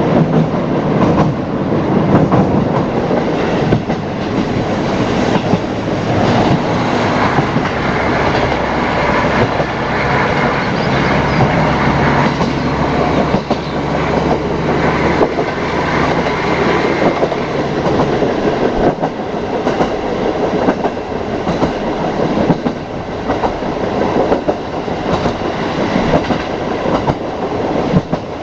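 Ride inside a KiHa 40 diesel railcar running along the line: the wheels clack over rail joints in a regular rhythm over the steady rumble of the train, with the diesel engine's drone coming through for a stretch in the middle.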